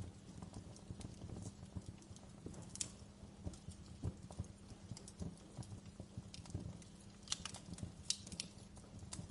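Fire crackling in a fireplace: irregular small pops and snaps over a low steady rumble, with a few sharper pops about three seconds in and again near the end.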